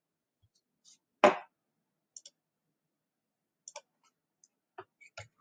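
A few separate sharp clicks with silence between, the loudest about a second in and fainter ones spread over the rest.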